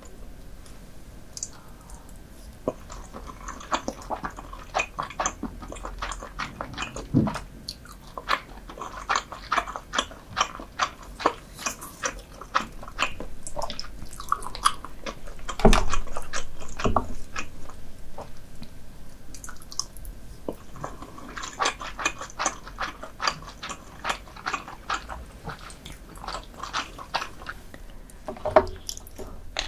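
Close-miked chewing of soy-marinated raw lobster and salmon roe rice: a quick, steady run of mouth clicks, with one louder thump about halfway through.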